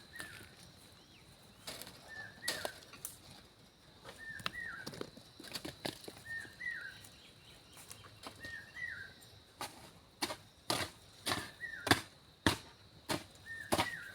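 A bird repeats a short call phrase about every two seconds over a faint steady high tone. Scattered sharp knocks pick up to about two a second in the second half: a digging tool striking stony ground.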